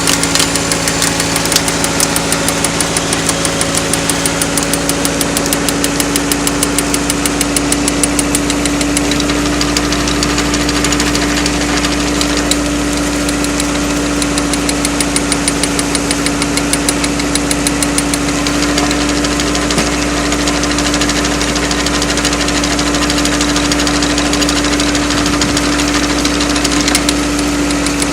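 Engine of an engine-driven firewood splitter running steadily at a constant speed, with a fast, even firing beat and no splitting in this stretch.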